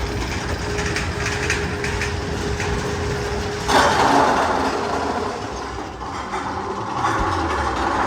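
Magnum XL 200 roller coaster train running and clattering on its track, with a steady hum until a sudden loud rush of noise comes in about four seconds in and slowly fades.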